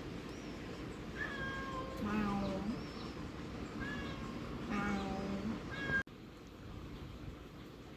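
A domestic cat meowing repeatedly, about five drawn-out calls, as it begs for a share of fresh fish. The sound drops suddenly to a quieter background about six seconds in.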